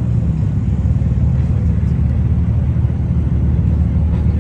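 A car engine running with a steady low rumble close by.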